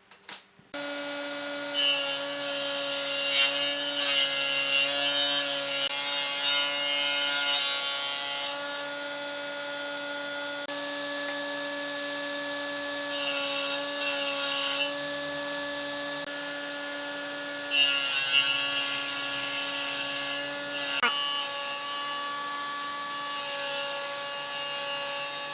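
An electric power tool starts about a second in and runs with a steady hum, with rough rasping stretches, three of them, as it cuts or sands wood.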